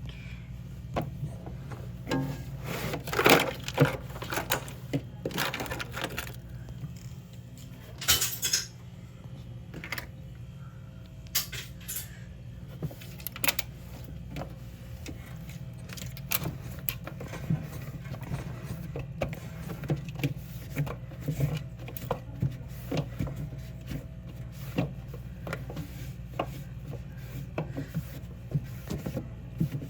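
Knocks, clicks and light clatter of items and shelves being handled while a mini fridge is wiped clean, with a few short louder scraping or hissing bursts around three and eight seconds in, over a steady low hum.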